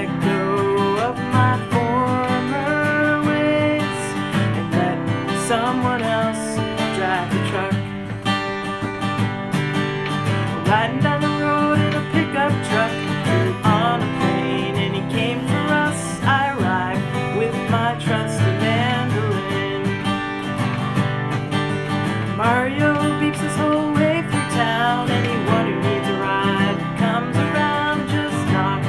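A song performed with guitar accompaniment, in a country style.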